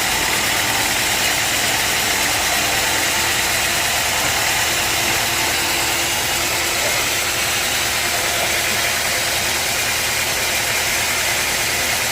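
Sawmill machinery running steadily: a loud, even engine-driven noise with no break or change.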